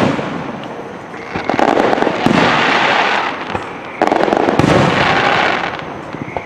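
Fireworks finale: aerial shells bursting in quick succession, with a fresh loud bang about every second or two and continuous crackling in between.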